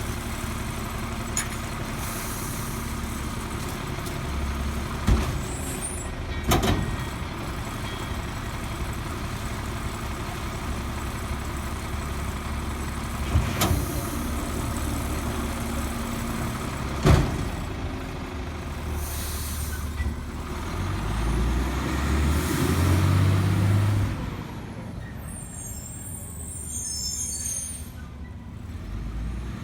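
Heil Multi Pack rear-loader garbage truck's engine running steadily, with four sharp loud bangs as the load is handled. Near the end the engine rises louder for a few seconds, then drops away.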